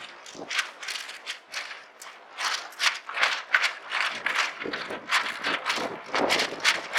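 Irregular sharp clicking and rattling, several clicks a second, growing denser and louder after about two seconds.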